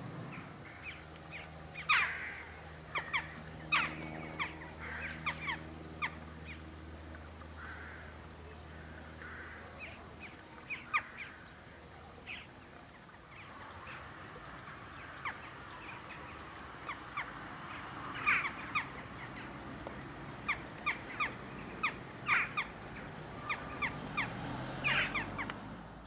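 Birds calling outdoors with many short, sharp chirps, some single and some in quick clusters. A low steady hum sits under them for the first nine seconds or so.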